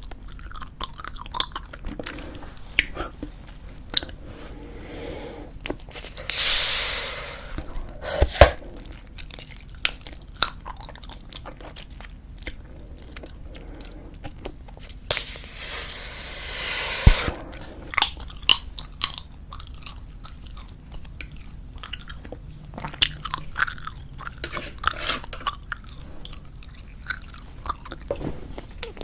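Bubblegum chewed close to the microphone, with many short wet smacks and clicks. Twice a breathy blowing sound builds for a couple of seconds and ends in a sharp pop: a bubble blown and burst.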